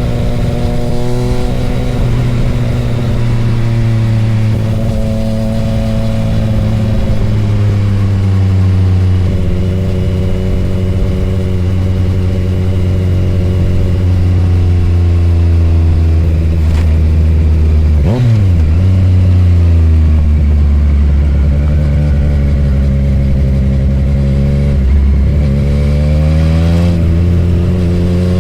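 Sport motorcycle engine running continuously at speed, its pitch drifting slowly down and back up. About two-thirds of the way in the pitch drops sharply and climbs again quickly, and it rises once more near the end.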